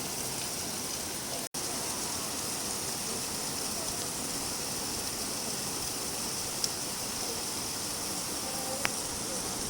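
Steady rain falling, an even hiss, broken by a momentary silent gap about a second and a half in, with a couple of faint ticks later on.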